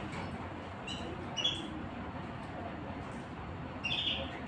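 Small songbirds chirping: a few short high chirps about a second in and a second and a half in, then a longer chirp near the end, over a steady outdoor background hiss.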